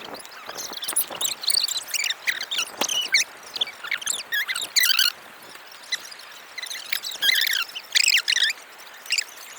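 Small birds chirping and trilling, many short quick calls overlapping, with busier spells about a second in, around five seconds in and again near eight seconds.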